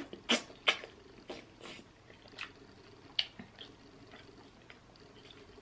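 Close-up mouth sounds of someone eating a seafood boil: wet chewing smacks and clicks, a quick run of them in the first couple of seconds, thinning to occasional smacks after about three seconds.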